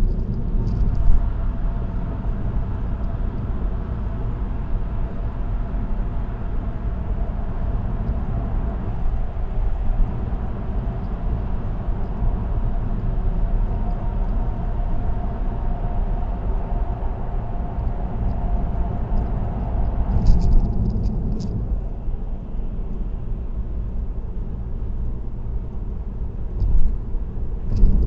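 Car cruising on an expressway: steady tyre and road noise with a low hum and a faint steady whine. Brief high rattles come about twenty seconds in and again near the end.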